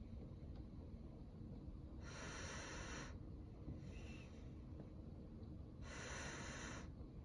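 Heavy rain falling steadily under a low rumble. Twice, about two and six seconds in, a breathy hiss rises for about a second and stops.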